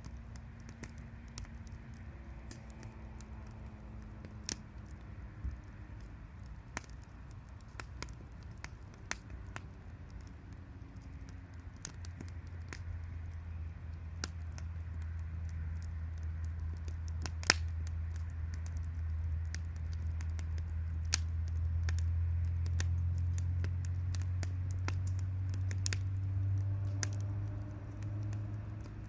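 Wood campfire crackling, with scattered sharp pops and one louder pop just past the middle. A low rumble builds from about the middle and eases off near the end.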